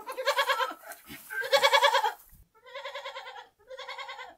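Goat bleating: four quavering bleats in a row, the last two quieter than the first two.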